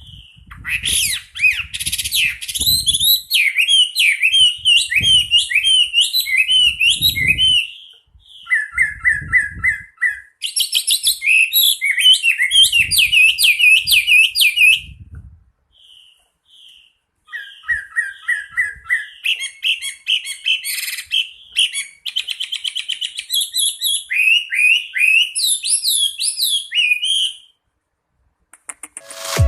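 Chinese hwamei singing a loud, fast, varied song of rising and falling whistled notes with runs of rapidly repeated notes, in long phrases broken by short pauses.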